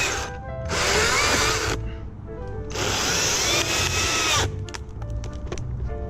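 Battery-powered Stihl MSA 161 T top-handle chainsaw running in three short bursts, its whine rising and falling. The last burst is the longest, and the saw stops about halfway in.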